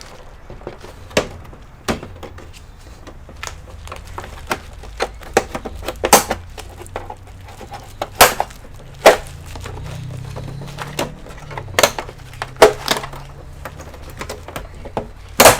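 Irregular sharp clicks and knocks of plastic computer parts and tools being handled during reassembly of an all-in-one PC. A low hum runs for a few seconds in the middle.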